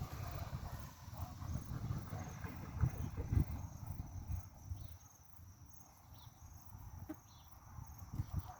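Faint high insect chirping, a steady repeating pulse, over uneven low rumbling noise from wind or handling, with a few short high chirps about halfway through.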